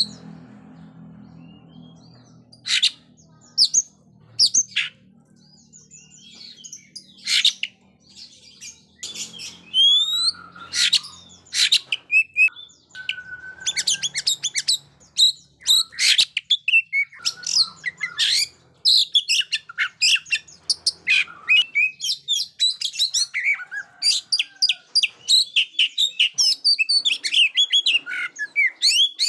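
Oriental magpie-robin (kacer) singing a loud, varied song of sharp whistles, chirps and trills. The notes come in scattered phrases at first, then become a fast, almost continuous stream from about halfway through.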